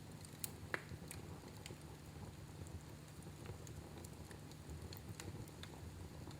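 Wood fire in a fireplace crackling faintly: scattered small pops and snaps over a low steady rumble, with two sharper pops about half a second and three-quarters of a second in.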